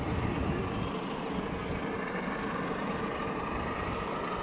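Distant approaching train: a steady rumble with a faint high whine that rises slightly.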